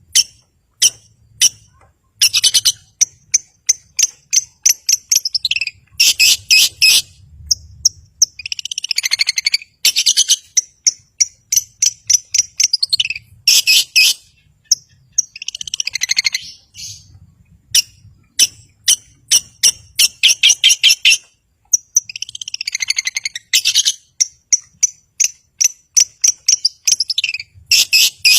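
Long-tailed shrike (cendet) singing loudly in a rapid run of sharp high notes and fast chattering trills. About every seven seconds a longer, harsh, downward-sweeping call breaks in.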